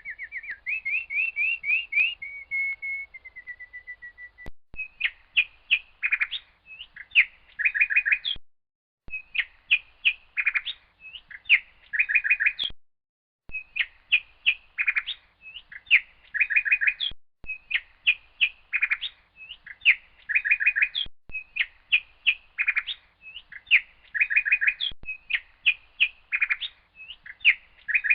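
A songbird singing: short phrases of quick, high chirps repeated over and over with brief pauses between them. It starts with a run of whistled notes that step down in pitch.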